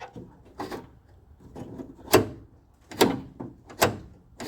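Car door lock and latch mechanism being worked by hand, giving a series of sharp mechanical clicks about a second apart as the freshly reassembled and lubricated lock is tested.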